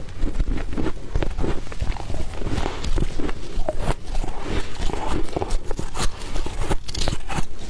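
Soft humidifier freezer frost being crunched: a dense, irregular run of soft, quick crunches.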